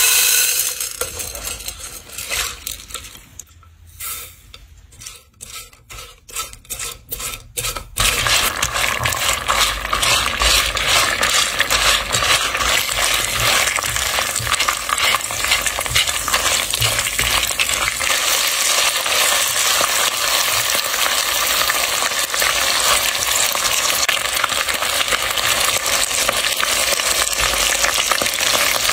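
Dried corn kernels pour into a clay pot with a rattle, followed by a few separate sharp clicks. About eight seconds in, loud, steady sizzling and crackling starts as corn kernels and a whole crab fry in hot oil, with a spatula stirring through them.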